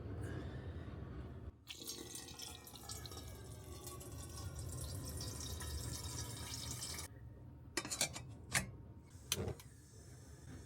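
Water running steadily, as from a tap or container, then stopping suddenly; a few sharp clicks follow.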